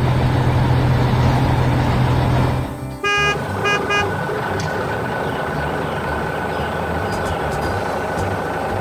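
A heavy vehicle's engine running with a steady low rumble, then three quick horn toots about three seconds in, after which the engine noise carries on.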